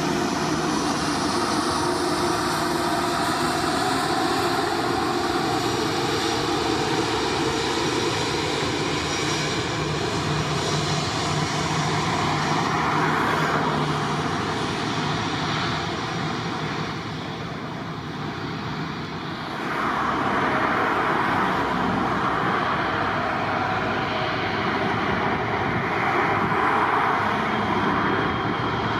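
Aircraft engines running loud and steady, with a few steady tones over a dense rush. The sound eases for a couple of seconds a little past the middle, then swells again.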